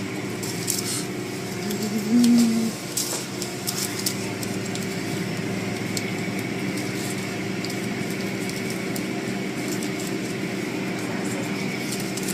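Car wash machinery running with a steady hum and a hiss of spraying water. About two seconds in, a brief louder low tone sounds over it.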